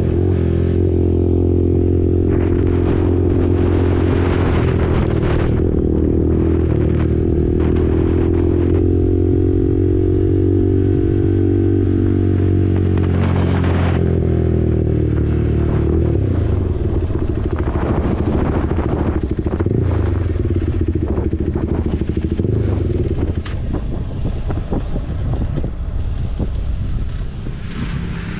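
KTM RC 390's single-cylinder engine through an SC Project aftermarket exhaust under way at steady revs, the pitch bending slightly down and back up. About two-thirds of the way in the revs drop, and the exhaust note turns rougher, uneven and quieter.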